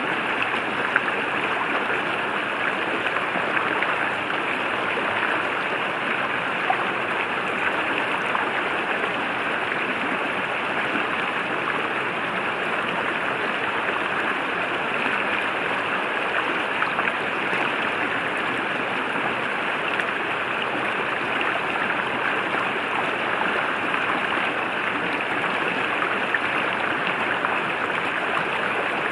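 River water flowing steadily over rocks: a constant rushing babble that does not change.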